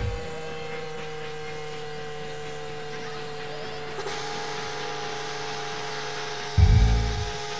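A steady mechanical whine of several held tones, sagging slightly in pitch, with a deep low boom near the end.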